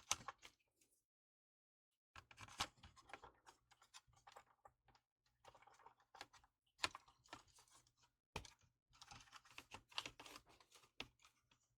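Faint, irregular small clicks and scratchy ticks of wires and small parts being handled and repositioned during soldering work, with a brief dead-silent gap about a second in.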